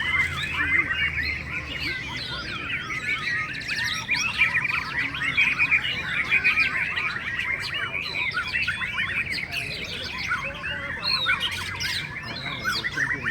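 Many caged white-rumped shamas singing at once in a song contest: a dense, unbroken tangle of overlapping quick whistles and chirps.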